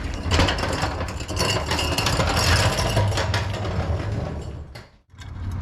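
Cummins 5.9 diesel engine of a rollback truck running with a steady low hum, with dense clattering and handling noise over it. The sound cuts out abruptly about five seconds in, then the engine hum returns.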